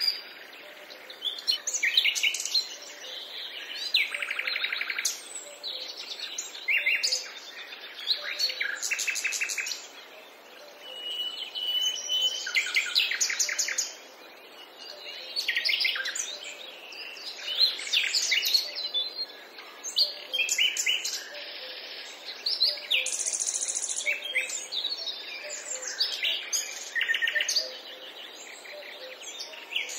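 Several wild birds singing and calling over one another: rapid trills and chirps, with one long whistled note about a third of the way through.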